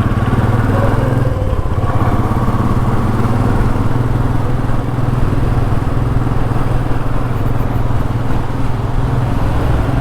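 Royal Enfield Meteor 350's single-cylinder engine running steadily as the motorcycle rides along, a loud, even low hum.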